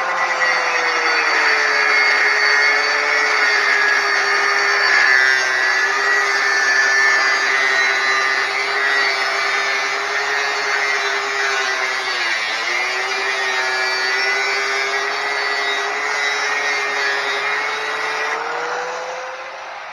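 Angle grinder with a cutting wheel slicing through the steel top tube of a 1980 Suzuki RM50 frame. The motor's pitch sags as the wheel bites into the metal, dips sharply about halfway through, and speeds back up near the end as the load comes off.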